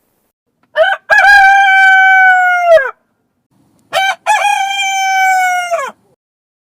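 Rooster crowing twice. Each crow is a short opening note followed by a long held note that drops off at the end.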